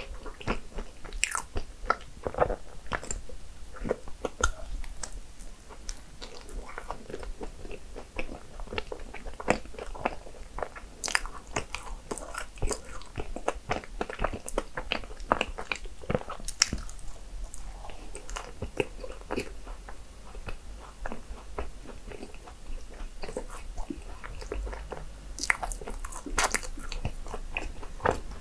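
A person biting and chewing cinnamon rolls, a dense run of small irregular clicks and crackles throughout.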